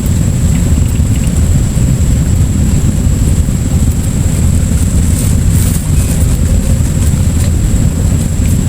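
Loud, steady low rumble of wind buffeting the microphone, with a thin high whine throughout.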